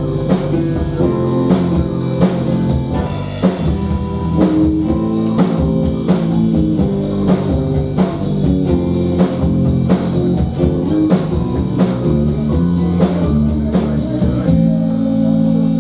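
Live rock band playing an instrumental passage: guitar and bass over a drum kit keeping a steady beat. Near the end the drums stop and a last chord is left ringing.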